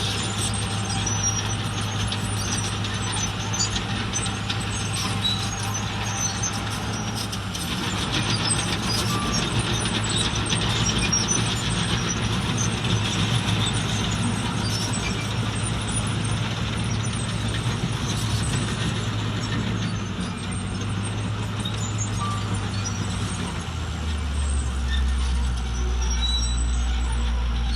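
Heavy diesel earthmoving machinery running: a steady engine hum with grinding noise over it. About 24 seconds in, the engine note drops to a deeper hum.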